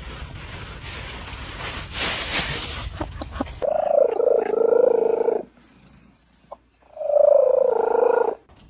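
A domestic cat purring, then giving two long, drawn-out meows with a short pause between them.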